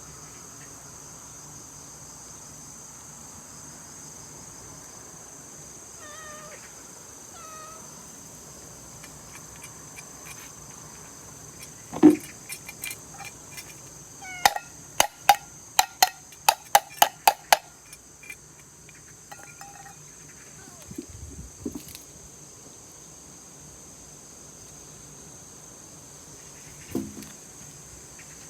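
Crickets chirring steadily in the background, with a cat meowing faintly twice early on. About halfway through there is a loud knock, then a quick run of about nine sharp clicks, with a few more knocks later.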